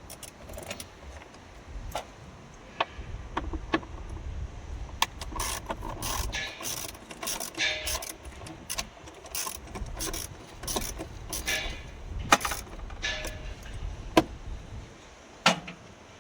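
Hand tools working on metal parts of a truck's AC blower assembly: irregular clicks and knocks, with ratchet-like clicking, over a low rumble.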